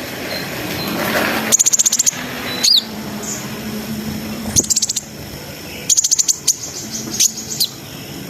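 Kolibri ninja (konin) sunbird singing short, rapid, high-pitched trills in four bursts, with a quick falling note between the first two.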